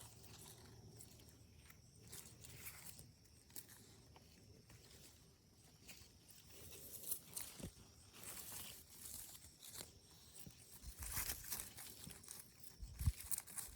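Faint rustling and crackling of leaves and brush, sparse at first and busier from about halfway, with a low thump near the end.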